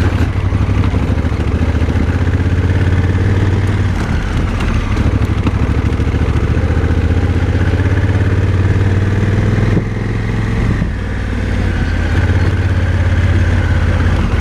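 Motorcycle engine running while riding, its pitch rising slowly as the revs climb, then easing off briefly a little under ten seconds in before running steadily again.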